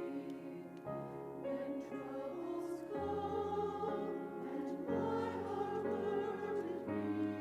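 Choir singing slow, held chords that change about every two seconds, with church music around it.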